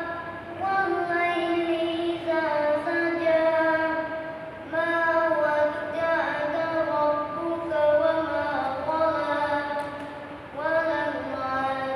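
A boy's voice reciting the Quran in a melodic chant, in long drawn-out phrases with short breaths between them, as in the recitation that leads a prayer.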